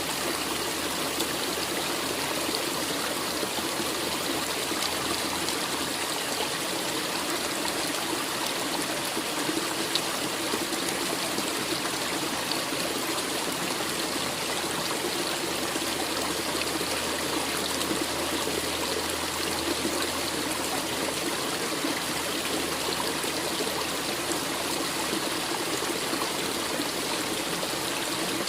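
A forest stream running steadily over rocks, a constant splashing trickle.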